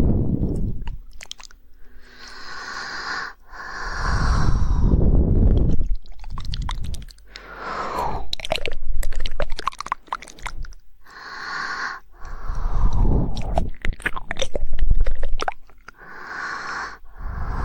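ASMR mouth sounds made close to the microphone: rapid wet tongue clicks and flicks (the 'woodpecker' tongue-clicking trigger), coming in runs between breathy, swelling mouth noises.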